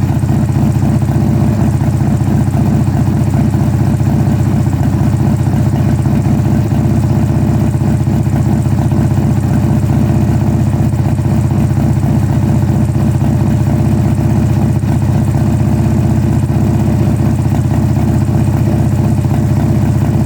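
Car engine idling steadily, its knock sensor newly relocated.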